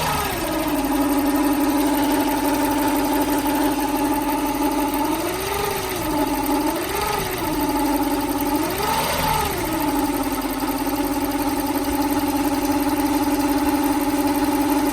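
Lexus SC400's 4.0-litre V8 idling. It settles back from a rev at the start and is blipped three times in quick succession about halfway through, then returns to a steady idle. The owner is chasing a weird noise from the top end of bank 2.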